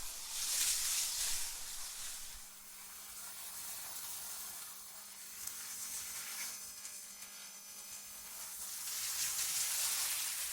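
AI-generated gusting wind: a hissing whoosh that swells about a second in, dies down, and swells again near the end, over a faint steady low hum.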